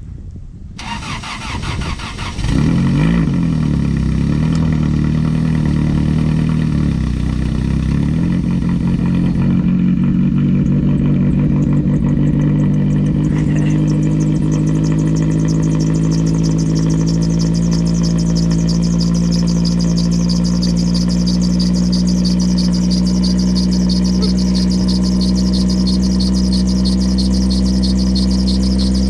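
Car engine on a cold start in freezing weather: it cranks for about two seconds, catches and revs, runs unevenly for several seconds, then settles into a steady idle.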